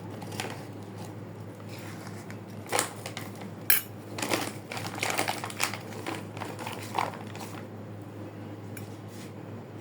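A scattered series of light clicks and clinks of small hard objects, most of them in the middle few seconds, over a steady low hum.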